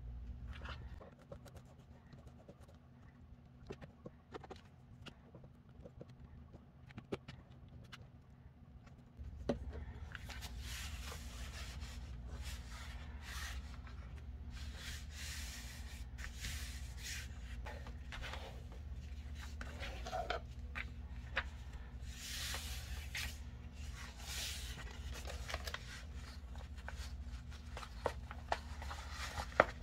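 Paper crafting: sparse light clicks and taps, then from about a third of the way in, repeated paper rustling, rubbing and scraping over a low steady electrical hum.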